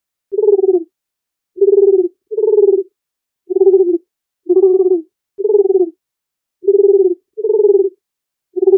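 A dove cooing: a string of about nine short, low coos, each about half a second long, some coming in quick pairs, starting a moment in.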